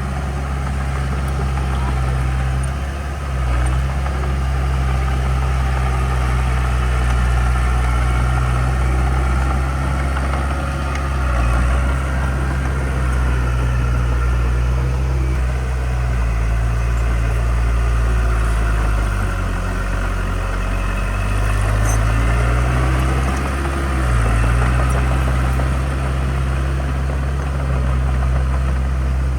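Heavy construction-machine diesel engine running steadily, with its pitch sagging and then recovering about two-thirds of the way through, as under a brief change of load.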